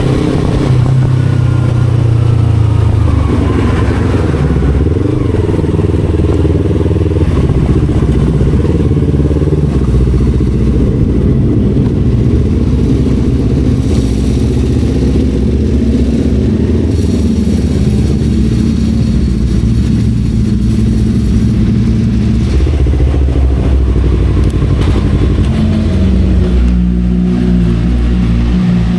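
Motorcycle engine and aftermarket racing exhaust running on the move. The engine note rises and falls in steps with throttle and gear changes.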